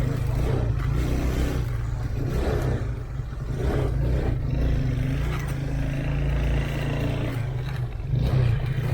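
A vehicle engine running steadily, its pitch drifting slightly up and down as the revs change.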